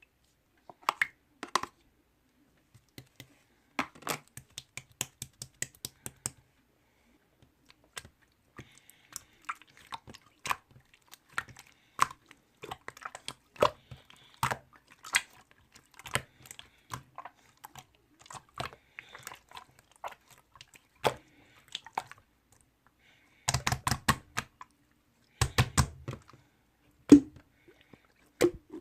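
Close-miked chewing of sweets: irregular sharp mouth clicks and smacks, with denser clusters of chewing near the end.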